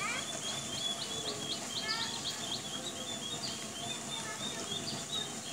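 Birds chirping in short, high chirps, several a second, over a steady outdoor hiss. One call falls in pitch right at the start.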